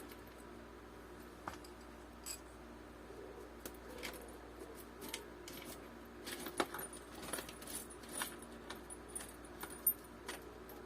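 Small metal hardware, washers and nuts, clinking as it is sorted through by hand in search of a washer. A few scattered clicks at first, then a busier run of light clinks in the second half.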